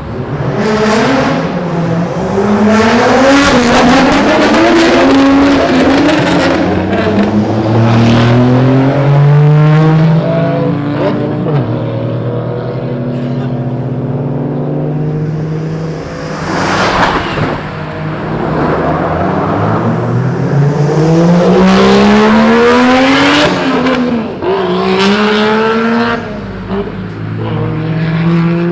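Modified Japanese cars with loud aftermarket exhausts revving and accelerating hard, one after another. Engine pitch climbs and drops back several times as they shift gears, with the longest, loudest pull a little past the middle.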